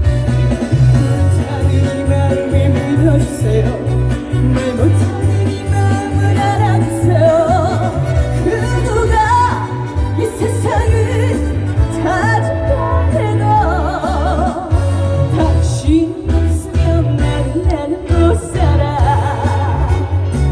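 Live dance song in trot style: a woman singing with a strong wavering vibrato over a heavy, steady bass beat and band backing.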